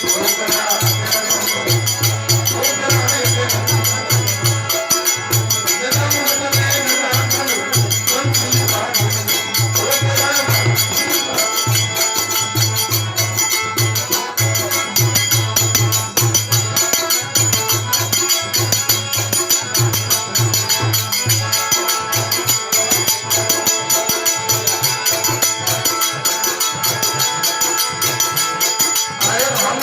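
Devotional aarti music: a steady, driving drum beat with jingling cymbal- or tambourine-like percussion and a melody line, without clear singing.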